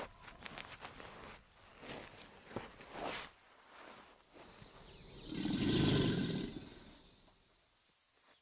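Insect chirping steadily at about three short high chirps a second. There are a few faint clicks in the first seconds, and a louder noisy burst lasts about a second and a half from about five seconds in.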